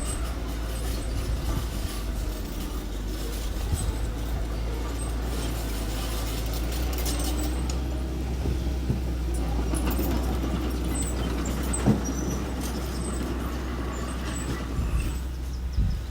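Engine of a small earthmoving machine running steadily, with one sharp knock about twelve seconds in.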